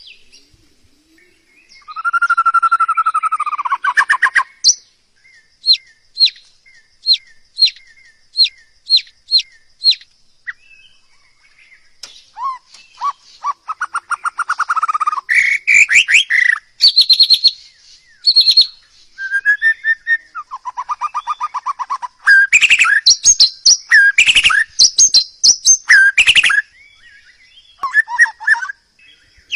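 A songbird singing a varied song: buzzy trills, a run of short whistled notes roughly every half second, then fast chattering phrases and whistles.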